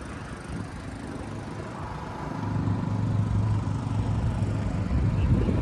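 An engine running steadily, growing louder from about two seconds in and dropping away suddenly at the end.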